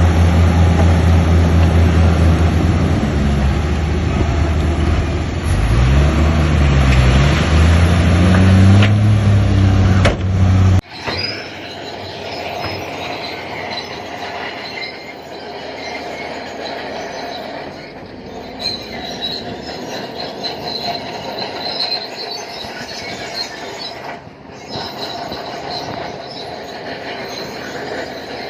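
Bulldozer diesel engine working under load, its pitch rising and falling. After a sudden cut about eleven seconds in, the engine is quieter and high metallic squealing and creaking of steel crawler tracks takes over.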